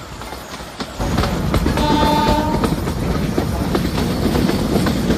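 Narrow-gauge passenger train running, heard from an open coach doorway: a steady rumble and clatter of wheels and coaches that grows louder about a second in. A brief pitched tone sounds about two seconds in.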